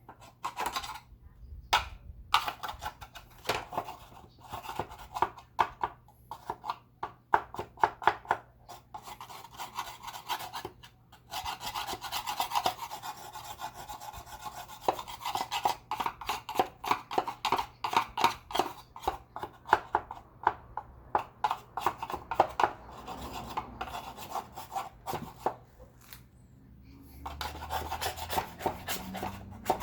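Rapid, irregular scrubbing strokes on a vacuum cleaner part, cleaning out dust, with brief pauses about ten seconds in and a few seconds before the end.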